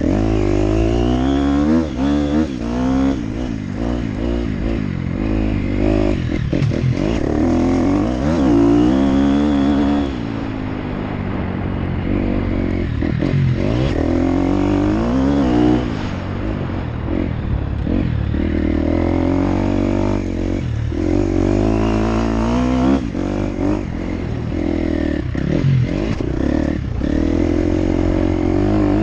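Motocross dirt bike engine being ridden hard, its pitch rising and falling over and over as the throttle is opened and shut through the gears, with knocks and clatter from the bike over rough ground.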